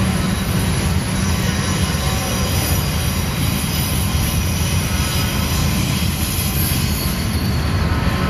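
Freight train of enclosed autorack cars rolling past on a tight curve: a steady, loud rumble of wheels on rail, with faint thin squealing tones from the wheel flanges.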